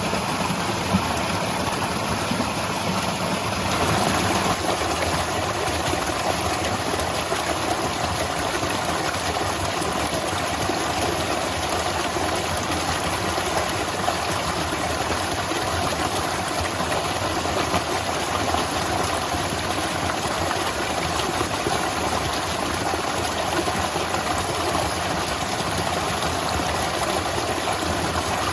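Waterfall: a steady rush of falling water, even and unbroken, its tone shifting slightly about four seconds in.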